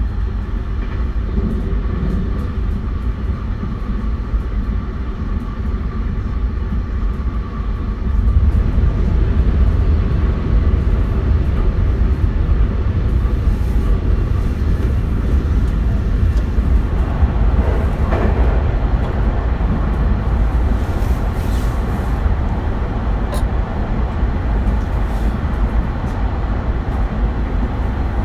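Running noise of a JR West 271 series train with a Hitachi SiC VVVF inverter, at speed: a steady low rumble of wheels on track with faint steady tones. It grows louder about eight seconds in.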